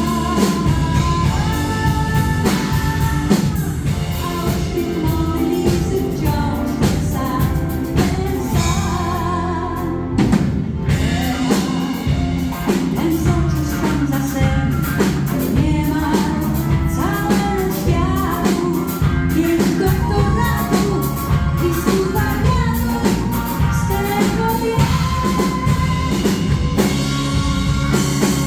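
Live pop song played by a band with a drum kit, with a woman singing the melody over it.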